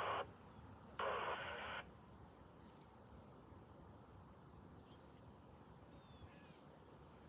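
Insects trilling steadily and faintly in a high, even band, with a short burst of static-like hiss about a second in.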